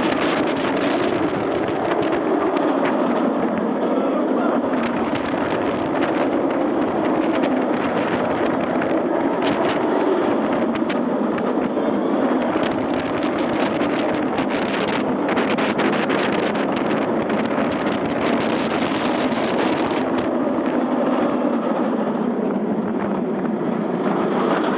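Wind rushing over a head-mounted camera microphone on a moving B&M inverted roller coaster, over the rumble of the train's wheels on the steel track. The pitch of the rumble rises and falls as the train changes speed.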